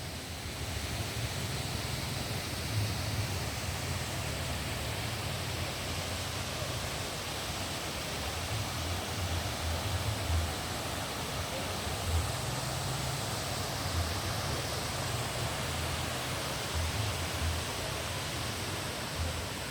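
Steady rushing of falling water, with an uneven low rumble underneath.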